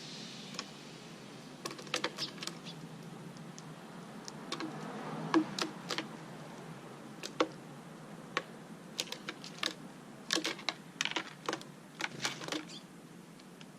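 Irregular light clicks and taps in uneven clusters, from hand work on small pieces of material.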